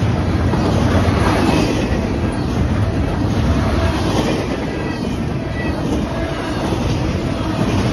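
Double-stack intermodal freight train rolling past at close range: a steady, loud rumble and clatter of the well cars' wheels on the rails.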